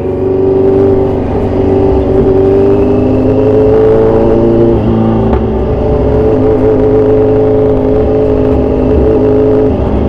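Kawasaki Z1000 Sugomi's inline-four engine running through loud aftermarket exhausts at a fairly steady pitch, dipping slightly about five seconds in.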